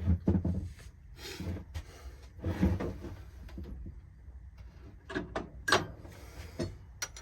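Carburetor from a Poulan Pro riding mower being taken apart by hand: an irregular run of knocks, scrapes and clatters from parts and tools being handled.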